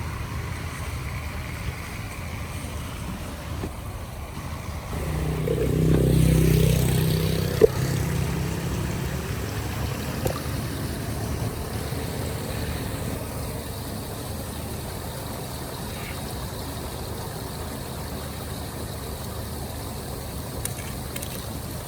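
A motor vehicle passes, swelling and fading from about five to nine seconds in, over a steady low rushing noise, with a single sharp click near its peak.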